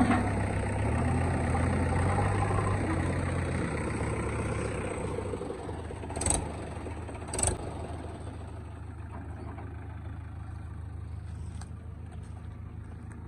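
Diesel engine of heavy machinery running, loudest for the first five seconds, when its pitch shifts a little, then settling quieter. Two sharp knocks come about six and seven and a half seconds in.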